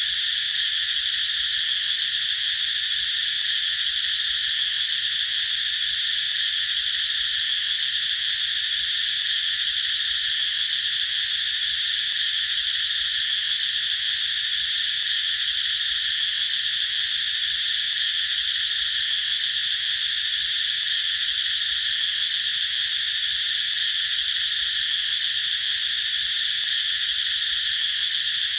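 Cicadas singing in one steady, unbroken high-pitched drone that never pulses or fades.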